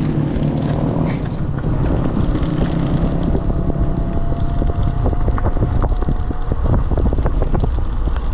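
Wind buffeting the microphone while riding an electric bike, with quick rattling clicks from the back that grow busier in the second half: the kickstand rattling, and the rider suspects the controller is also loose in its box. A faint steady whine is heard for a few seconds in the middle.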